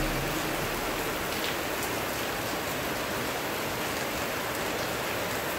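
Steady rain falling, a constant hiss with scattered drips.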